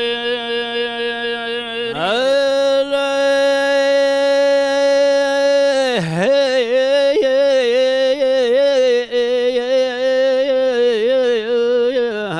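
A man singing Arabic poetry without words in this stretch. He holds one long steady note for about four seconds, drops briefly, then carries on in wavering, ornamented notes. No instruments are heard.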